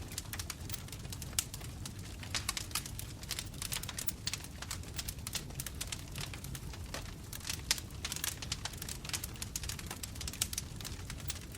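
Bonfire crackling: frequent irregular pops and snaps of burning wood over a steady low rumble of flames, with one louder pop about two-thirds of the way through.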